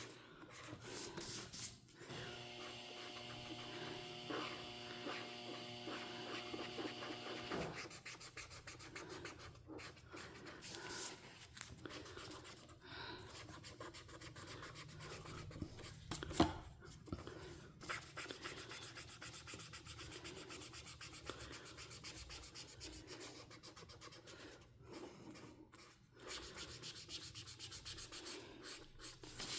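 Felt-tip coloring marker rubbing and scratching across paper in repeated uneven strokes. A steady pitched hum with several tones runs from about two seconds in to about eight seconds in, and a single sharp click comes about sixteen seconds in.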